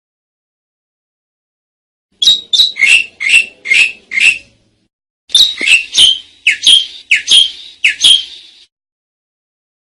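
Asian pied starling (jalak suren) calling: two quick runs of short, downward-sliding notes, about six and then about seven, separated by a brief pause and starting a couple of seconds in.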